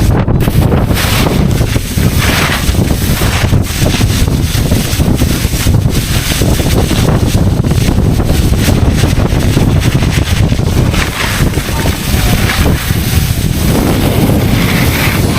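Wind buffeting the microphone during a ski run, with the hiss of 99 cm skiboards' edges cutting through the snow swelling and easing as the rider turns.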